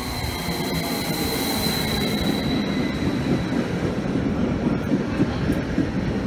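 Stadler FLIRT electric multiple unit pulling into the platform close by. A high steady whine with hiss fades after about two and a half seconds, leaving a steady rumble of wheels on rail with a few faint clicks.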